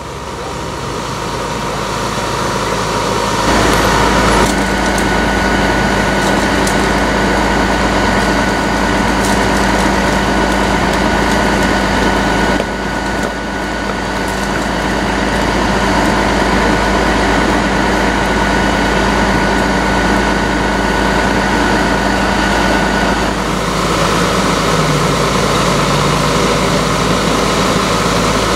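Heavy truck engine running steadily at idle, with a constant thin whine above the low hum.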